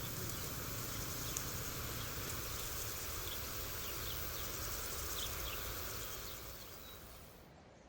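Outdoor ambience: a steady hiss with a few short, faint high chirps, fading out near the end.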